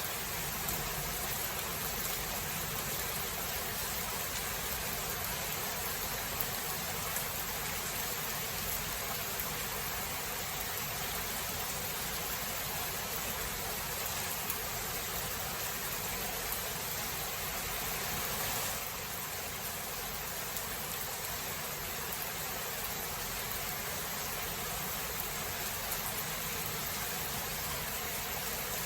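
Steady heavy rain falling in a thunderstorm, an even hiss with no clear thunderclap; the level eases slightly about two-thirds of the way through.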